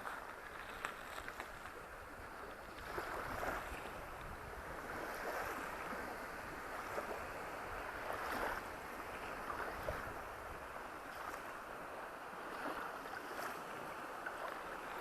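Sea surf breaking on a sandy beach: a continuous wash of water with waves surging louder every few seconds, about three seconds in, around eight seconds and again near the end.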